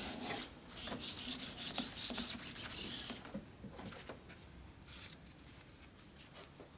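Metal lathe parts being scrubbed by hand with an abrasive to take off rust, in quick back-and-forth strokes. The scrubbing stops about three seconds in, and a few scattered strokes follow.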